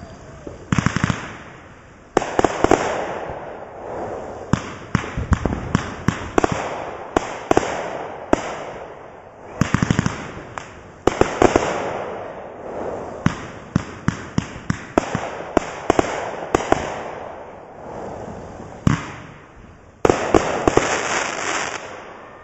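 'Collision Course' consumer fireworks cake firing a long run of aerial shots: sharp reports, some single and some in quick rapid clusters, each followed by a rushing hiss as the bursts fade.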